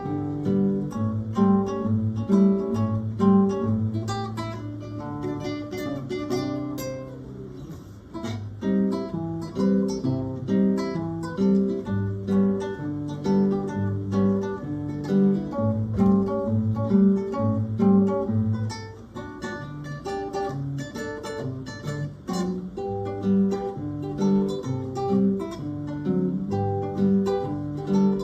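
Acoustic guitars playing an instrumental piece: plucked melody notes over a steady bass line, easing off briefly about eight seconds in and again around nineteen seconds before picking up again.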